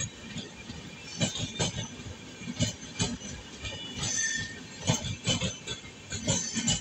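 Passenger train coaches rolling past, their wheels knocking over rail joints in pairs of clacks about every second and a half over a steady rumble. A brief high wheel squeal comes about four seconds in.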